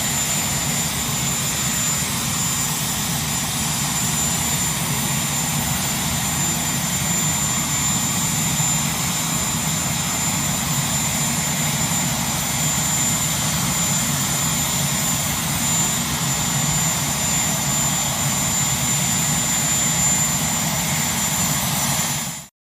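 Jet aircraft engines running steadily: an even roar with a constant high-pitched whine over a low rumble. It cuts off suddenly near the end.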